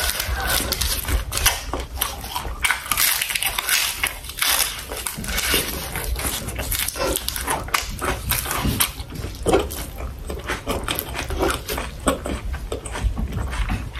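Close-miked chewing and mouth sounds of a person eating sausage with rice and vegetables: a dense, irregular run of smacks and clicks.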